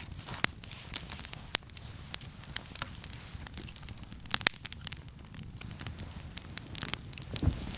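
Wood campfire crackling, with irregular sharp pops and snaps over a faint steady hiss. The pops come thicker near the end.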